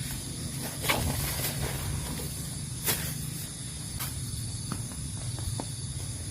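Steady rain hiss with a low rumble and a few sharp taps of heavier drops, about one, three and four seconds in.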